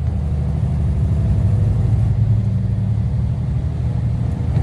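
Tractor-trailer's diesel engine running at a steady, even drone.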